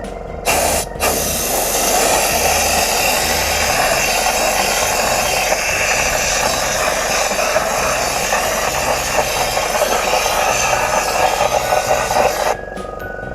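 A workshop tool running continuously with a steady hissing noise. It starts with a short burst and a brief break about a second in, then runs without change and stops abruptly near the end.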